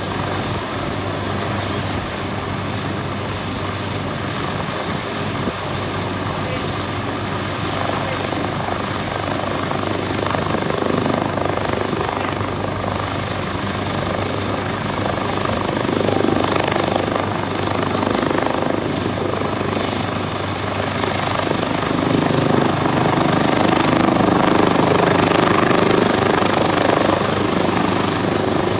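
A steady, loud engine-like drone under a rushing noise, getting a little louder in the second half.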